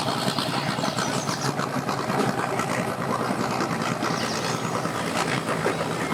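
Boat engine running at idle, a steady low hum with water and ramp noise around it.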